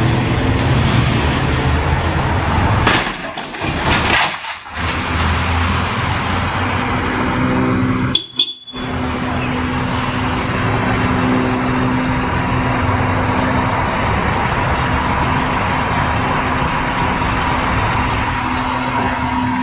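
Steady road and engine noise of a vehicle driving, picked up by a dashcam, with a faint steady hum running through it. The sound drops out briefly twice, about three to five seconds in and again about eight seconds in.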